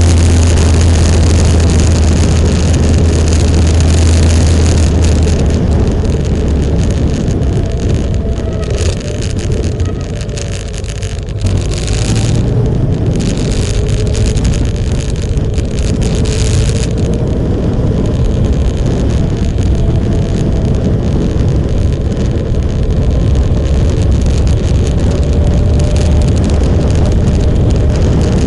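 Motorcycle engine running while riding, with wind rushing over the microphone. The engine note drops briefly about ten seconds in, then picks back up.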